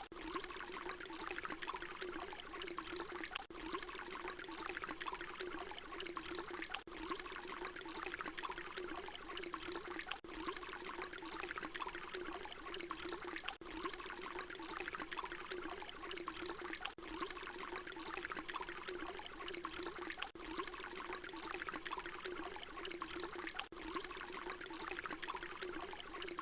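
Water pouring in a steady stream, with a low gurgling tone under the splashing. Brief dips come about every three and a half seconds where the short recording loops.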